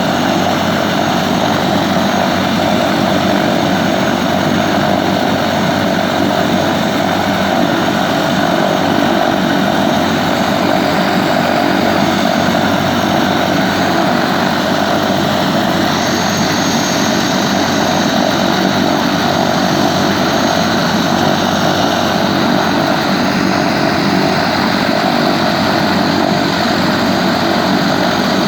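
Helicopter in flight: loud, steady engine and rotor noise with no let-up. A thin high whine joins about halfway through.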